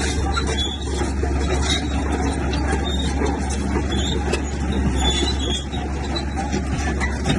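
Heavy diesel earthmoving machine running steadily: a constant low engine drone with dense noise over it.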